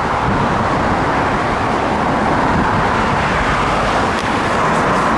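Steady road traffic noise, cars running on the street.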